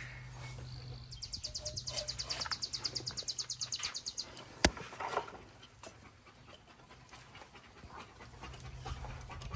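A dog panting fast and rhythmically, about nine breaths a second, for around three seconds, followed by a single sharp click.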